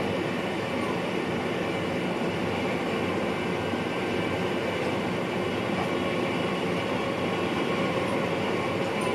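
Steady running noise of an NS VIRM double-deck electric train heard inside the driver's cab, with a few faint steady tones over it.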